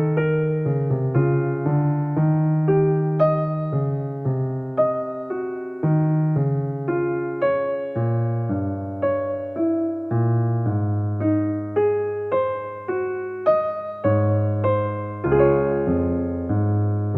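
Background piano music: a gentle melody of struck notes, each fading away, at an even pace of about two notes a second.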